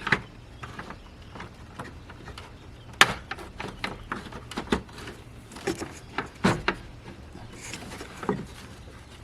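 Scattered clicks and knocks of hands working the retaining pin and clip of a car's cooling fan, folding the pin back to free the fan; the sharpest knock comes about three seconds in.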